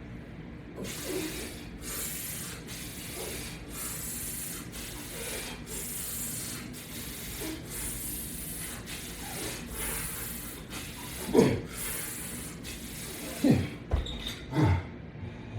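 Repeated rubbing and scraping in even strokes, about one every 0.7 seconds, from a push-pull isometric exercise done on a mat with chains hooked to a latch bar. Near the end come a few short vocal sounds that fall in pitch.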